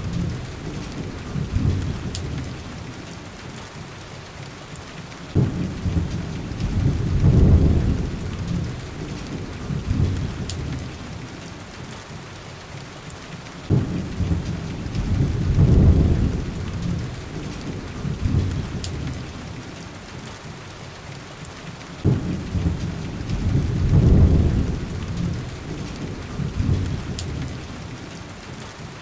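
Steady heavy rain on window glass, with a low thunder rumble rolling in three times, each starting suddenly, swelling for a couple of seconds and fading away. A few faint crackles from a fireplace come through the rain.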